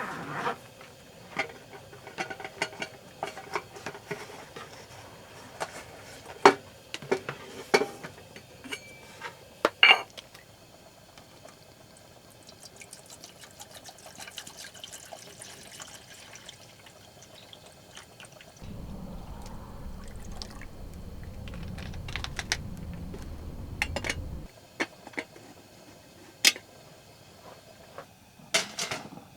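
Camp cooking sounds: liquid being poured, with scattered clinks and knocks of utensils and cookware, and a steady low rumble for several seconds past the middle.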